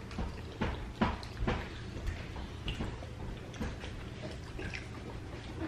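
Scattered light clicks and knocks of cutlery and dishes at a dinner table during a meal, over a low steady hum.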